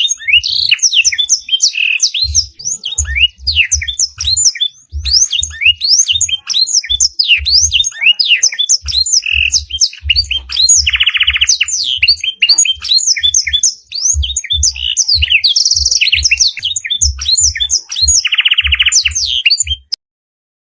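Canary song with blackthroat-style phrases: a fast, continuous stream of high chirps and quick sweeping notes, broken by a few short buzzy trills. Dull low thumps sit underneath, and the song cuts off abruptly near the end.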